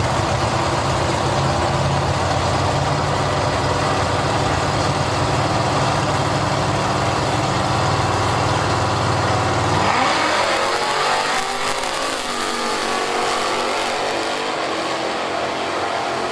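Drag-racing car engine running at a steady low pitch, then launching about ten seconds in, its pitch climbing as it accelerates away.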